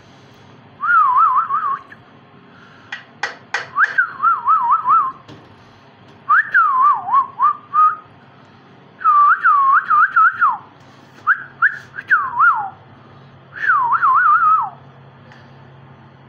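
A parrot whistling six short phrases of about a second each, every one a quick warbling run of rising and falling notes, with a few sharp clicks about three seconds in.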